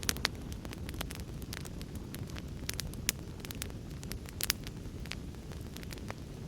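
Wood fire crackling, with irregular sharp pops, the loudest just after the start and at about three and four and a half seconds, over a steady low rumble.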